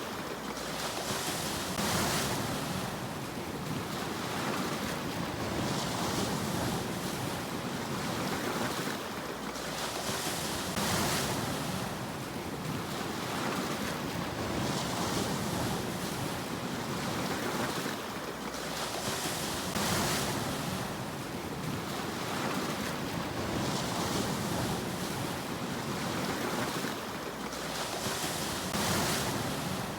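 Sea waves breaking and washing up the shore, a fresh surge of hiss about every four to five seconds over a steady low wash of surf.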